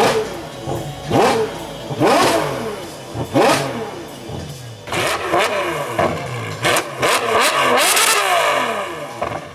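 Supercar engine revved hard in short blips, each rising sharply in pitch and dropping straight back. The blips come about once a second at first, then a quicker run of several revs comes later.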